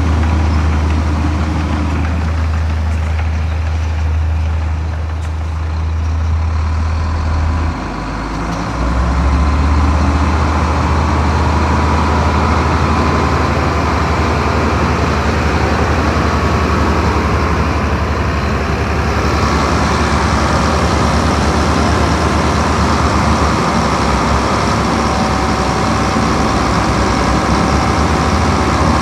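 Diesel engine of heavy earthmoving machinery running with a steady low drone. It dips briefly about eight seconds in and then picks up again, with a steady whine alongside.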